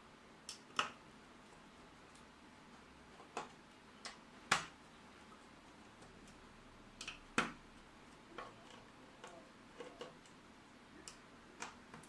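Irregular sharp clicks and taps, about a dozen of them, from handling an ATX power supply's metal case and tools while taking it apart. Three of the taps, about a second, four and a half and seven and a half seconds in, are louder than the rest.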